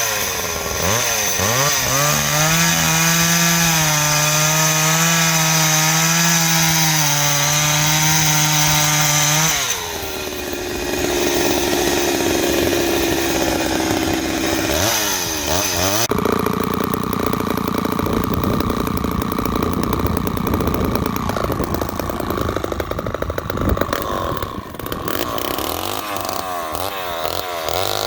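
Two-stroke chainsaw running at high speed with a steady whine for about nine seconds, then dropping back and revving. From about halfway the sound turns rougher and noisier as it works through dry white oak.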